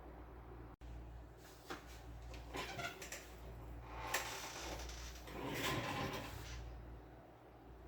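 Plastic parts of a laser printer being handled, with scattered clicks and two longer scraping, rubbing stretches, over a low steady hum.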